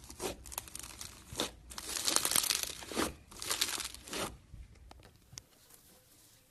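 Slime being squeezed and stretched by hand, giving a run of crackling, crinkling strokes that stop about four seconds in, leaving only a few faint clicks.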